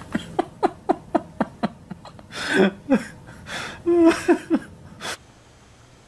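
People laughing in a quick run of short bursts, each falling in pitch, with louder outbursts about two and a half and four seconds in. The sound cuts off suddenly about five seconds in.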